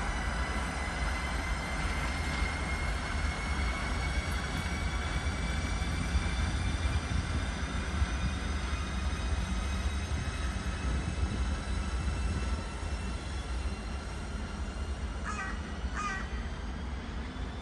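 Electric train running through the station: a steady low rumble under a high whine of several tones that fall slowly in pitch. A crow caws twice near the end.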